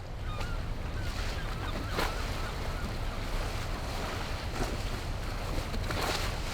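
Wind and water noise, with wind buffeting the microphone, and a few faint, short high chirps over it.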